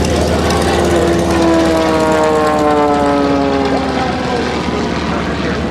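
Extra 300 aerobatic monoplane's engine and propeller, its pitch falling steadily for about three seconds as it passes by.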